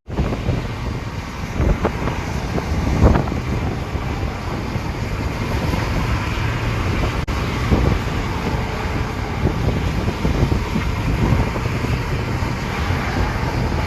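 Steady rumbling road and wind noise of a moving vehicle, with a few brief knocks early on and around the middle.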